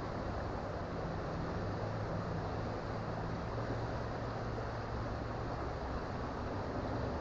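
Creek water flowing, a steady rushing noise with a low rumble underneath.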